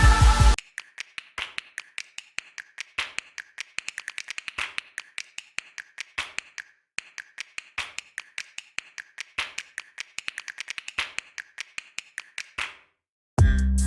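Sharp taps on a hard surface, coming in quick runs of several a second with short pauses between them, from food being prepared by hand.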